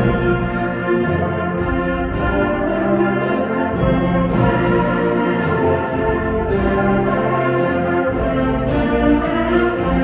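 Student concert band playing a piece, with brass prominent over the winds and percussion strikes marking the beat.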